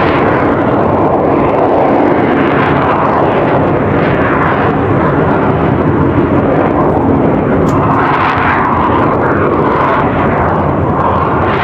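Loud, steady jet aircraft engine noise from a jet hovering low over the display area, swelling about two seconds in and again about eight seconds in.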